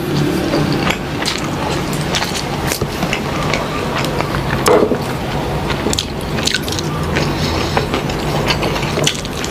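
Close-miked mukbang eating sounds: chewing fatty pork adobo, with irregular wet smacks and mouth clicks, over a low steady hum.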